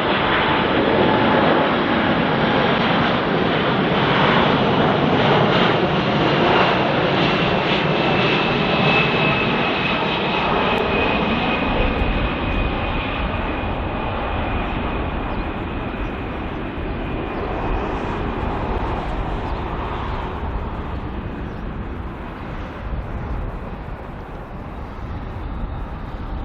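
Boeing 747-400 freighter's four jet engines on its landing, loud at first and slowly fading as it passes, with a high whine that slides slightly down in pitch.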